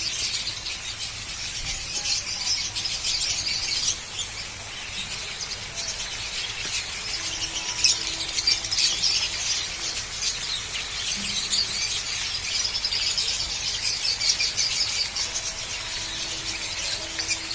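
Dense chorus of many small birds chirping and squealing at once, a continuous high-pitched chatter of rapid overlapping calls.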